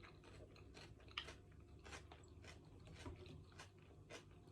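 Faint, regular chewing close to the microphone, about two chews a second, with one sharper crunch about a second in.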